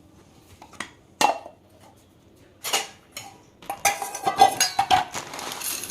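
Kitchen bowls and utensils being handled: a few separate knocks and clinks, one ringing briefly, then a quick run of clattering clinks from about halfway through.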